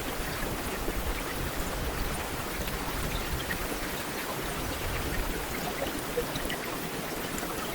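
Heavy rain falling steadily, a dense even wash of noise with scattered individual drops ticking through it.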